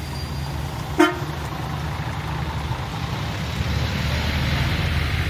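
Motor vehicle engine running with a steady low rumble, and a single short horn toot about a second in.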